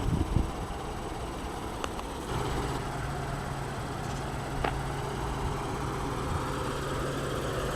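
The 2014 Acura RLX's 3.5-litre V6 engine comes on about two seconds in and then idles steadily, with a couple of single clicks.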